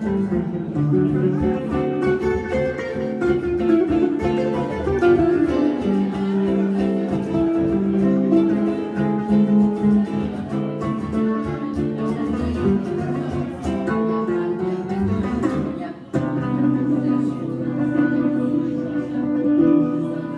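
Jazz guitar duo playing a swing tune, one on a hollow-body electric guitar, the guitars amplified through a PA. About sixteen seconds in the playing drops out briefly, then comes back as held chords that fade near the end.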